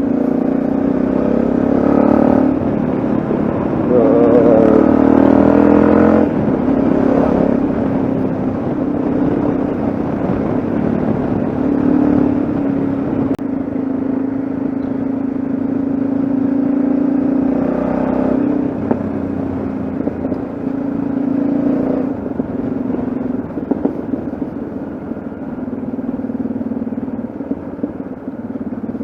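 Yamaha XT660Z Ténéré's single-cylinder engine running under way, a steady note that swells louder for a couple of seconds about four seconds in.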